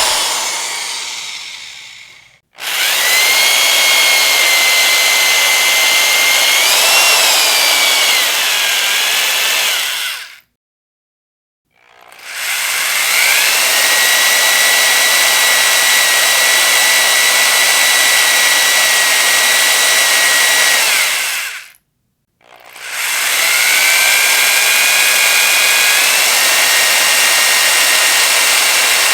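Electric power drill winding down, then run in three long bursts of about eight to ten seconds with short pauses between. Each burst carries a high, steady whine that shifts slightly in pitch.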